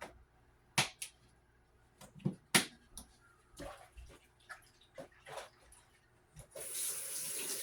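Scattered sharp clicks and knocks of kitchen items being handled. About six and a half seconds in, a kitchen faucet comes on and runs steadily into the sink.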